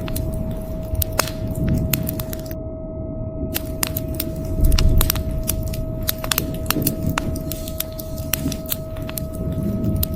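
Wood fire crackling with frequent sharp pops and snaps over a low rumble of thunder that swells about halfway through, with a faint steady hum underneath.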